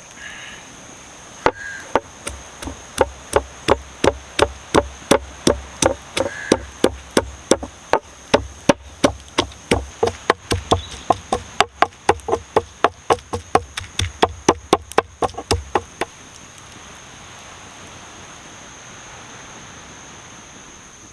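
Knife chopping on a wooden board in a steady run of about three strokes a second, lasting some fifteen seconds and then stopping. A steady high insect drone runs underneath.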